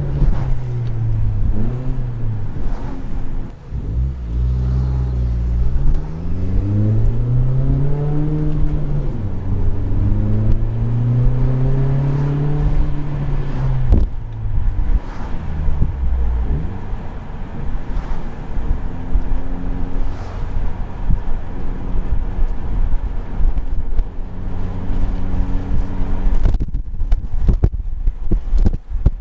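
2018 Honda Accord with its resonator and muffler deleted, the exhaust rising and falling in pitch several times as the engine revs up and lets off, then settling into a steady drone. A cluster of sharp pops comes near the end.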